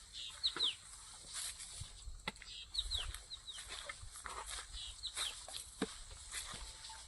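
Birds chirping: short, high, falling chirps, often in quick pairs, repeating throughout, with scattered sharp knocks and clicks.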